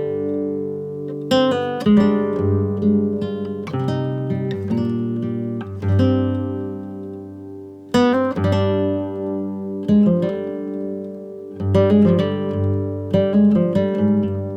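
Background music: acoustic guitar playing chords, struck every second or two and left to ring.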